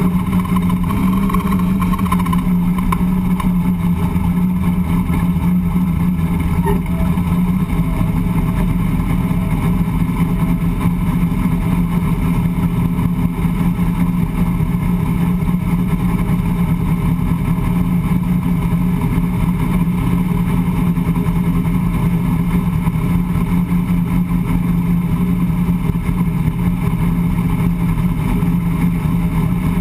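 Drag radial race car's engine idling steadily, heard loud from inside the caged cockpit, with no revving.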